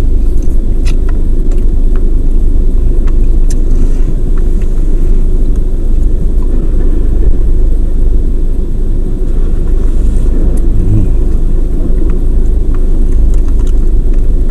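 Steady low rumble of a car idling, heard from inside the parked car, with a few faint clicks of food and packaging being handled.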